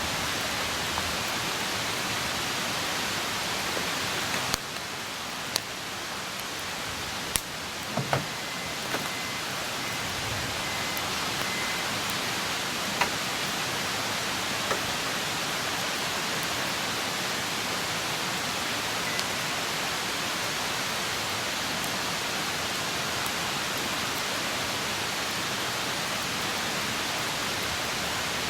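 Wood campfire burning: a steady hiss with scattered sharp crackles and pops from the burning wood, several close together in the first half.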